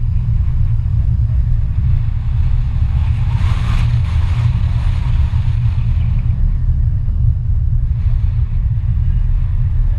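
Steady low rumble of a car driving on the road, with a rush of hiss that swells for a few seconds in the middle.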